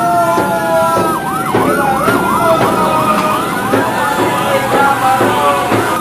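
Several emergency-vehicle sirens sounding at once: long wailing tones overlap, and about a second in one switches to a fast yelp of about three sweeps a second, running until near the end.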